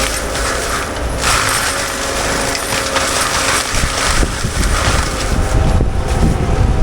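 Forestry mulcher on a CAT 299D3 XE compact track loader running, with a steady whine from the spinning Fecon mulching head over the machine's engine. Near the middle there is uneven grinding and rumbling as the drum chews through brush.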